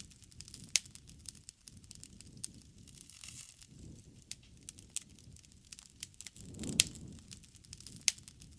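Wood fire burning, crackling with frequent sharp pops over a soft low rush of flame that swells about two-thirds of the way through.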